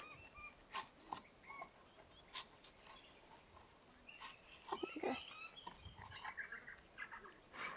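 Wild birds calling in the background: short chirps and whistles here and there, a busier burst of calls midway, and a rapid chattering run near the end.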